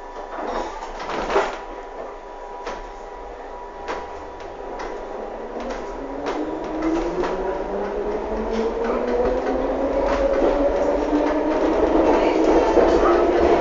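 London Underground C Stock train pulling away, heard from inside the car: a few knocks and clicks at first, then the traction motors' whine rising steadily in pitch and growing louder as the train accelerates.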